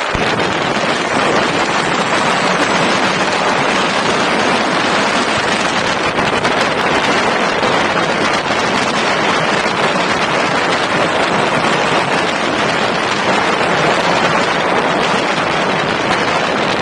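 Steady loud rushing of wind on the microphone, unbroken and without any separate events.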